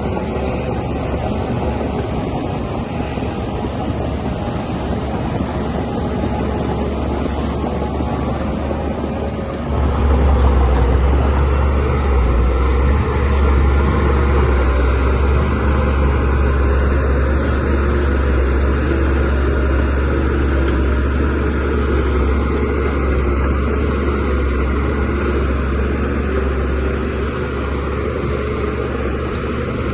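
Shantui DH17C3Pro crawler bulldozer's diesel engine running steadily. About ten seconds in it gets louder, with a deeper, stronger hum that then holds.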